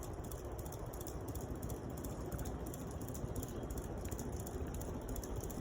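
Harbor Breeze Calera all-weather ceiling fan running on high speed: a steady rush of moving air with a fast, even flutter.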